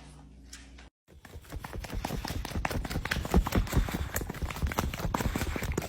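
Rapid, irregular clatter of small knocks and taps, starting about a second in and going on steadily.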